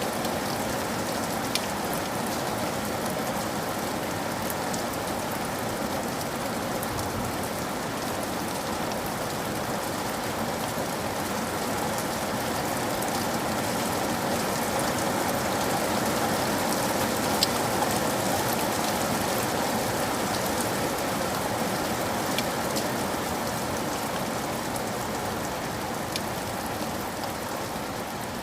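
Steady rain falling on a surface, with a few sharper single-drop ticks standing out now and then.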